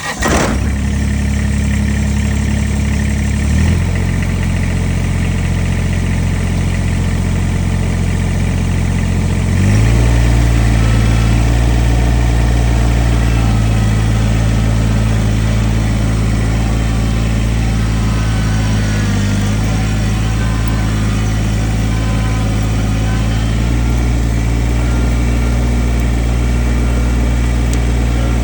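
Diesel engine of a Kubota compact tractor-backhoe running steadily. Its note steps to a new speed about 4 seconds in and again about 10 seconds in, a little louder the second time, then holds steady.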